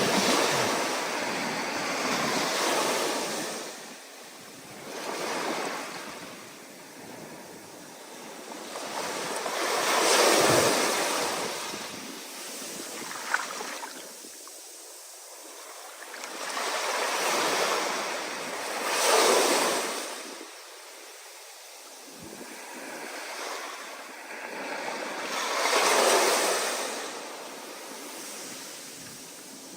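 Ocean surf under stormy wind: waves breaking and washing in, each swell rising and falling away every several seconds.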